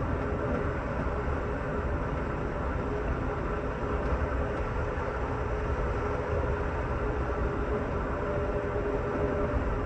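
Steady ride noise inside an Amtrak Superliner sleeping car at speed: a continuous rumble of wheels on rail with a faint steady hum running underneath.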